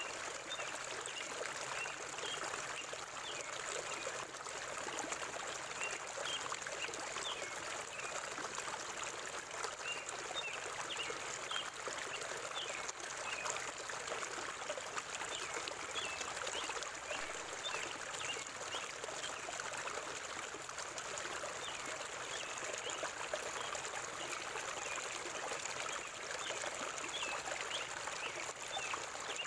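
River water flowing steadily, with short high bird chirps scattered throughout.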